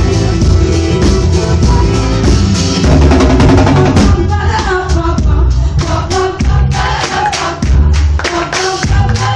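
Live band music with electric bass, guitar and a steady drum beat; from about four seconds in, singing voices come in over the band.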